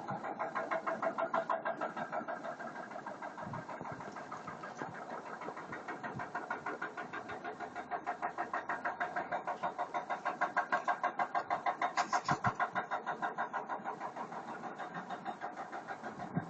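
A car engine with a fast, even pulsing of about five beats a second throughout.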